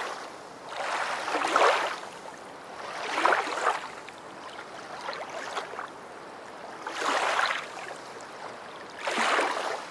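Small waves washing onto the beach, the surf rising in a rush and falling back four times over a steady wash.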